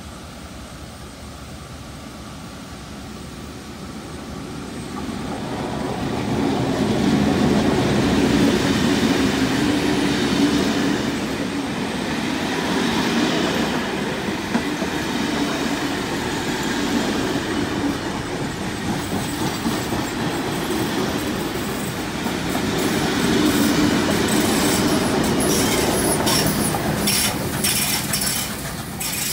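Heritage passenger train passing close through a station: the rumble and clatter of carriage wheels on the rails builds up over the first several seconds and stays loud, with a second swell later on. Near the end a quick run of sharp clicks comes in.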